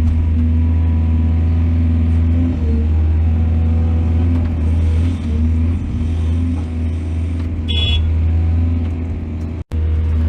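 Heavy diesel machinery running steadily, a hydraulic excavator or dump truck working under load. A brief high-pitched squeal comes about eight seconds in, and the sound cuts out for an instant near the end.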